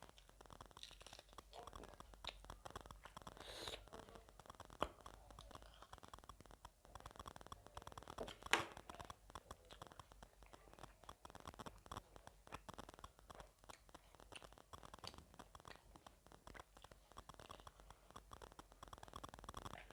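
Faint close-miked eating of gilo chatpate: soft chewing and mouth sounds made of many small clicks and crackles, with two sharper clicks about five and eight and a half seconds in.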